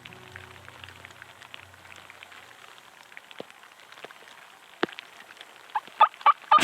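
Soundtrack music tails off, leaving a quiet spread of scattered faint ticks and patter. Near the end come several short, sharp calls from wild turkeys closing in, just before they gobble.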